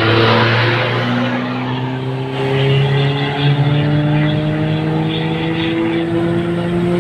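Car engine heard from inside the cabin, pulling steadily under acceleration, its pitch rising slowly as speed builds. A rush of road and wind noise in the first second as another vehicle runs close alongside.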